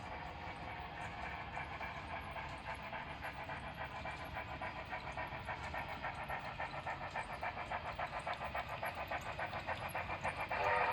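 AD60 Beyer-Garratt steam locomotive exhaust chuffing in a quick, even rhythm that slowly grows louder while working a coal train. A steady whistle starts just before the end.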